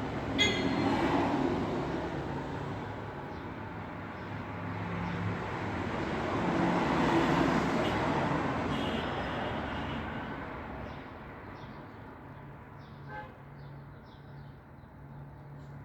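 Road traffic: vehicles passing by, the noise swelling and fading about a second in and again around seven seconds in, then settling to a lower, steady traffic hum. A few faint short high chirps come near the end.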